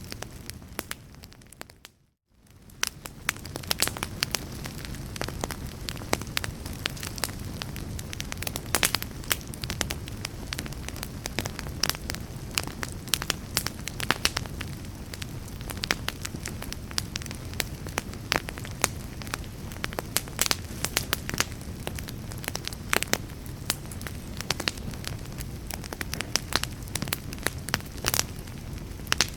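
Fire crackling in a fireplace: frequent sharp pops and snaps over a steady low rumble of flames. About two seconds in the sound briefly fades almost to silence, then comes back.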